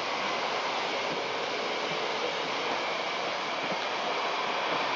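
Running noise of a moving passenger train heard from a carriage window: a steady hiss and rumble with a few faint, irregular knocks from the wheels.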